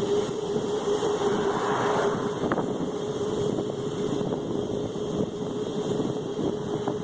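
Razor MX500 Dirt Rocket electric dirt bike's motor running under way with a steady whine, over the rough noise of the ride and wind on the microphone.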